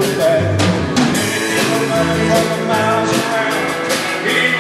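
Rock and roll band playing, with a steady drum beat under pitched instrument lines and some singing.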